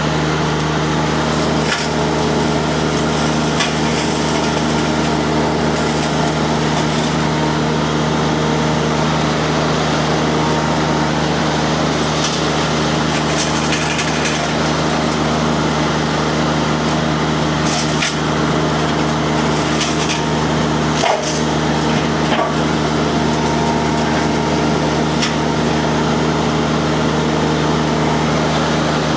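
Mini skid steer's diesel engine running steadily under load while a disc mulcher chews through brush and small trees, with occasional sharp cracks of wood splintering.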